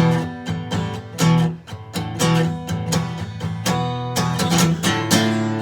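Acoustic guitar strumming chords in an instrumental passage of a song, with regular strokes.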